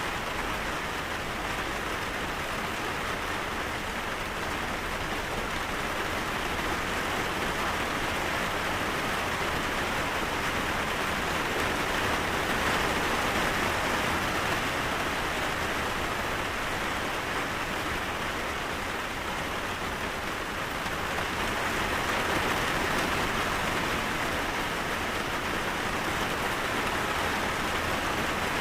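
Steady heavy rain falling, an even hiss that swells and eases slightly now and then.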